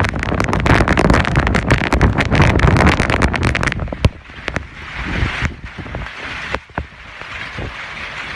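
Hailstones pelting hard surfaces in a dense, rapid clatter of impacts. About four seconds in the clatter drops away to a softer steady hiss of falling hail and rain with scattered single hits.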